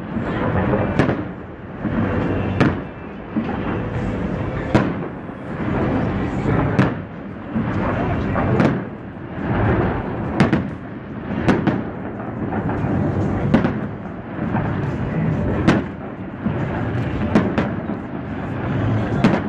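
Aerial display fireworks bursting overhead: a string of sharp bangs, one every second or two, over a continuous din.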